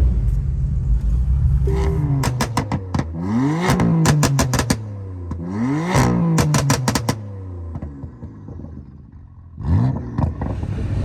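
A car engine revved hard twice, the pitch climbing and falling each time, with rapid strings of loud exhaust pops and crackles on each rev. A shorter rev follows near the end.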